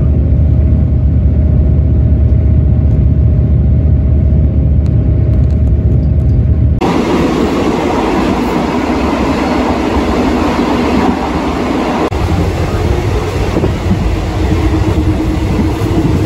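Running noise inside a moving passenger train coach: a steady low rumble from the wheels on the rails. About seven seconds in it switches abruptly to louder, hissier rushing noise of wheels and wind near the car's end door.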